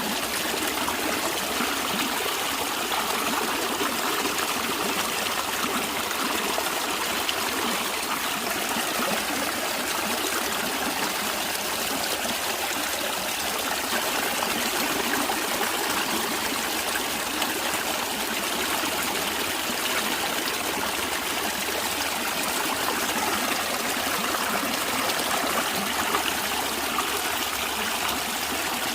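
Stream of water running and trickling steadily, with no pause or change.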